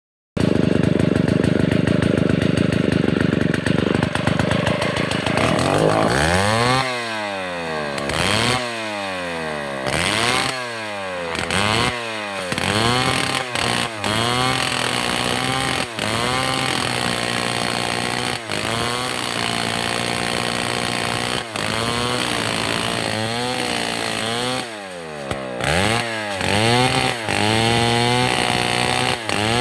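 Chainsaw running hard for the first few seconds, then its engine pitch repeatedly dips and climbs back up about once a second. It then settles into a steadier run broken by brief dips, and a few more swoops come near the end.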